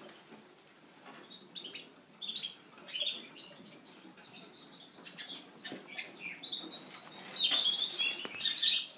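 Small show birds chirping in their cages: many short high chirps, growing louder and busier about seven seconds in.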